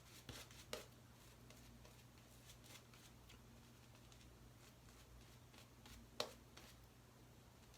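Very faint scratchy swishing of a badger shaving brush working soap lather, with a few soft clicks and a sharper one about six seconds in.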